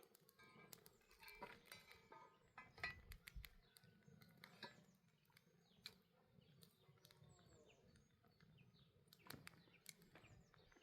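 Near silence: faint outdoor quiet with a few soft bird chirps and scattered light clicks.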